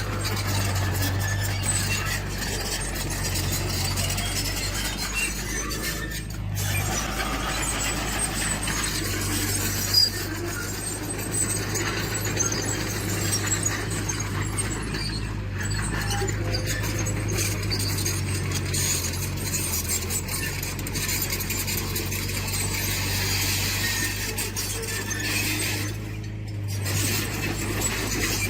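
Diesel engine of a tracked earthmoving machine running steadily, with high metal squealing and clinking from its steel tracks and one sharp clank about ten seconds in.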